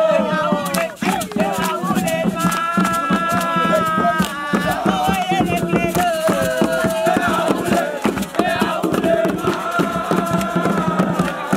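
A group singing a chant in unison, holding long notes, over a dense run of sharp percussive hits keeping time.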